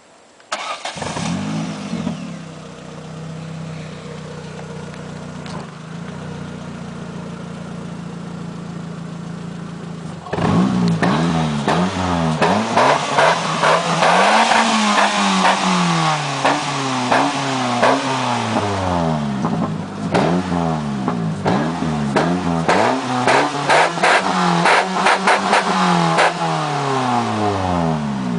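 Ford Focus 1.8 engine heard at the exhaust: it starts about half a second in, flares and settles to a steady idle. From about ten seconds on it is revved again and again, the pitch climbing and falling with each blip, through a camera microphone that distorts the sound.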